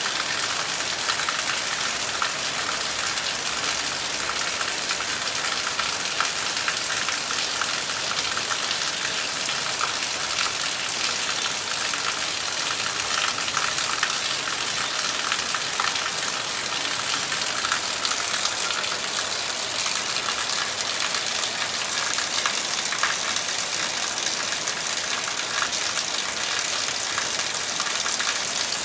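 Torrential rain pouring steadily on foliage and ground, a dense, even hiss made of countless fine drop impacts, with no thunder.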